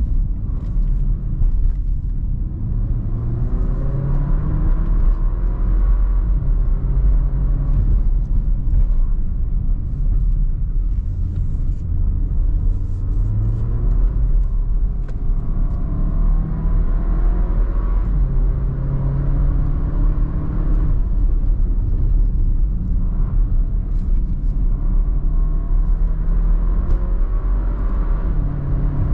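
Porsche Macan's 2.0-litre turbocharged four-cylinder engine heard from inside the cabin while driving, the engine note climbing and dropping again and again as it pulls out of bends and eases off, over a steady low road rumble.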